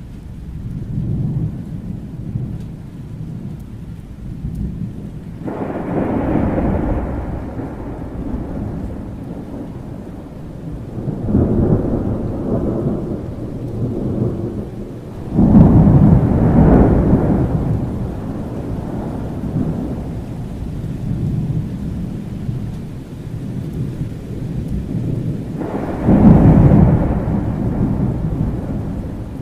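Thunderstorm: several long rolls of thunder over continuous rain. The loudest roll breaks in sharply about halfway through and another strong one comes near the end.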